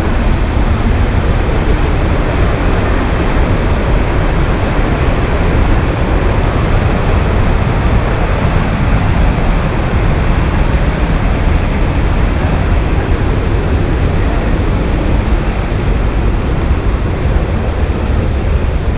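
A large waterfall in full rain-fed flow, rushing steadily and loudly with a heavy low rumble.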